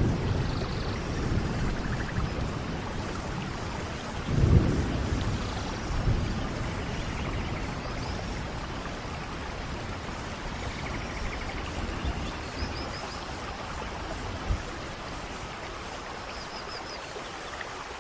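Steady rain with rolls of thunder, the strongest rumble about four and a half seconds in and smaller ones after it. A few faint high chirps come through the rain near the end.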